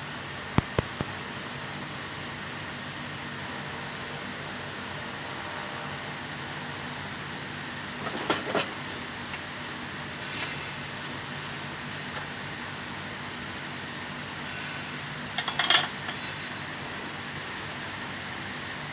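Scattered metallic clinks and taps of hand tools against metal parts during engine work, a few at a time with the loudest cluster about three-quarters of the way through, over a steady mechanical hum.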